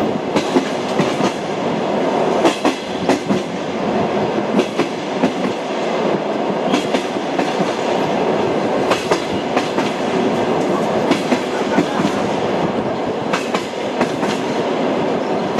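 Train wheels running over rail joints: a clickety-clack of short knocks in groups, about every two seconds, over the steady rumble of a moving train.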